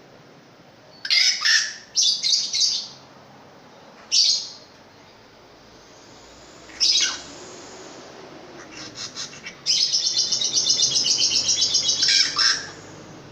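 Pentet raja (long-tailed shrike) calling loudly: a few short, harsh, high calls, then a long fast chattering phrase of about three seconds near the end.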